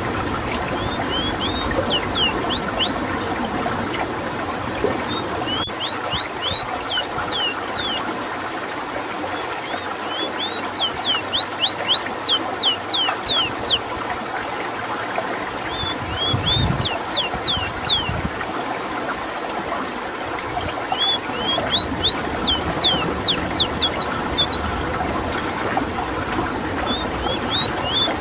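Ruddy-breasted seedeater singing: phrases of quick, high whistled notes, each rising then dropping steeply, repeated about every five seconds, over a steady background of running water.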